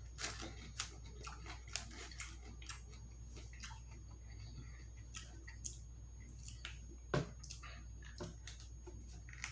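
Close-miked chewing and eating of chicken wings: irregular wet mouth clicks and smacks, with one louder knock about 7 seconds in.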